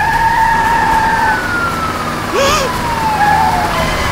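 Police car siren wailing: a high tone that holds, then slowly slides down in pitch, over a low engine rumble, with a short hiss about halfway.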